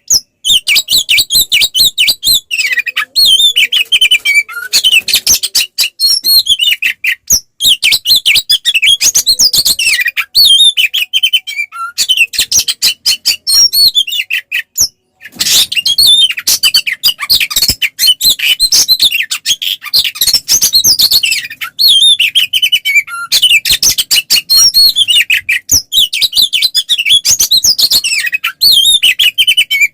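An Oriental magpie-robin (kacer) sings a loud, continuous song in fighting mode. The song is a dense stream of rapid, varied whistled notes mixed with sharp clicking notes, broken only by brief pauses about 7 and 15 seconds in.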